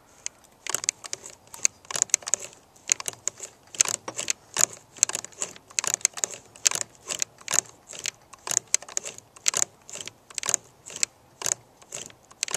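Lintz & Eckhardt chainstitch (moss/chenille stitch) sewing machine running: its mechanism clicks and clacks sharply, about two to three clicks a second in an uneven rhythm.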